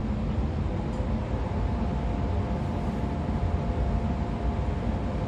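Running sound inside the motor car of a 113 series electric train with MT54 DC series-wound traction motors and DT21B bogies: a steady low rumble of wheels on rail, with a faint steady whine coming in about a second and a half in.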